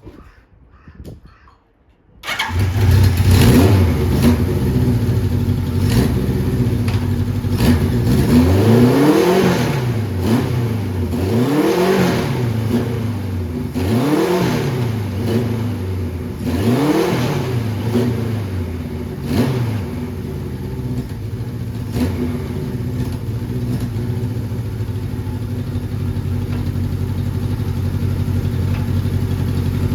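1979 Kawasaki Z1000ST's air-cooled inline-four engine, fitted with power filters, starting about two seconds in. It is blipped four times, each rev rising and falling, then settles to a steady idle.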